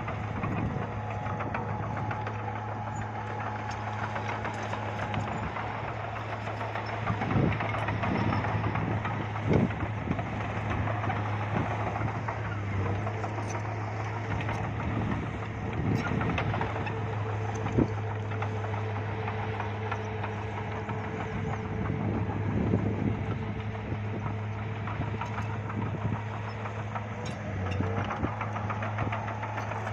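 Bulldozer's diesel engine running steadily, with a few sharp clanks spread through.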